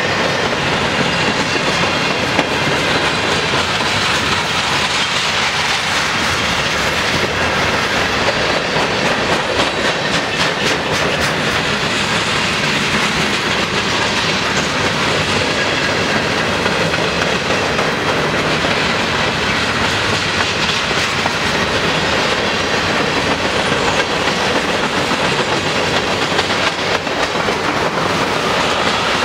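Freight cars of a long mixed manifest train rolling past on the near track: a steady clatter of steel wheels over the rail joints, even in level throughout.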